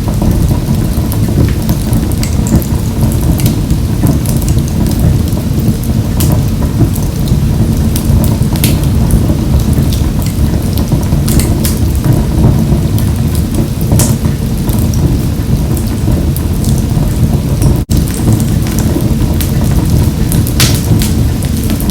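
Wood fire burning in a wood-burning stove: a steady low rumble of the flames with frequent sharp crackles and pops. The sound cuts out for an instant near the end.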